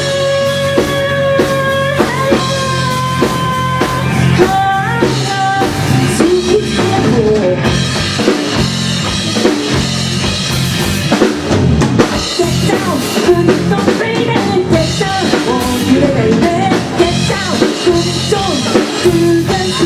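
A live band playing a song with drum kit and electric guitar. A few held notes sound at the start, and a singing voice comes in after about four seconds.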